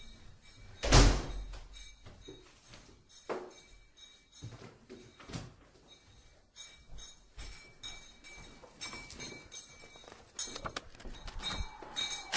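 A loud thump about a second in, followed by scattered fainter knocks and rustling.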